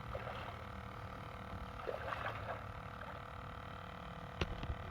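Faint outdoor boat ambience: a steady low hum with soft water and handling sounds, and two sharp knocks near the end.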